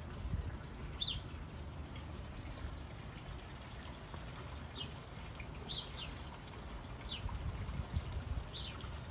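Songbirds chirping: about six short, high, downward-sliding chirps spaced irregularly, over a steady low rumble.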